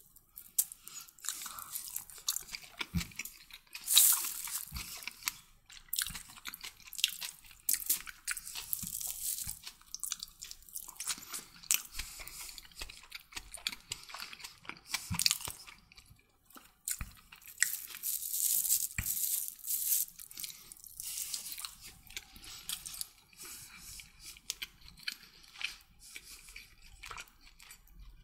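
A person chewing and crunching mouthfuls of chicken kottu roti close to the microphone, with many irregular short clicks and smacks.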